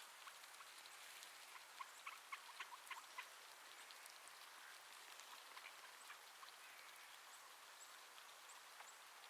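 Faint, soft chirps and clicks from a pet budgerigar, a quick cluster of them about two to three seconds in, then a few tiny high ticks.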